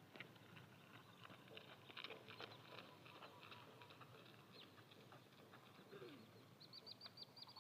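Faint chirping of birds, many short calls scattered throughout, with a quick run of high repeated chirps near the end.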